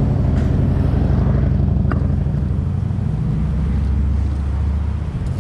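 Motor vehicle engine running close by, a steady low hum that fades out about five seconds in.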